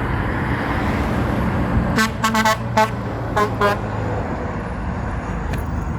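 Truck horn giving a quick run of short toots about two seconds in, then two more a moment later, over the steady rumble of a passing truck engine and road noise.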